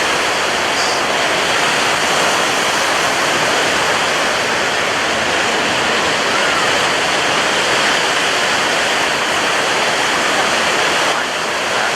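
Ocean waves washing onto a shore, a steady unbroken rush of surf.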